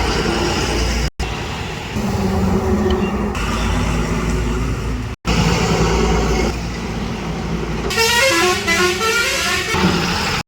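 Truck engine running with a steady low rumble, broken twice by very brief dropouts. Near the end a vehicle horn sounds for about two seconds, its pitch stepping up and down.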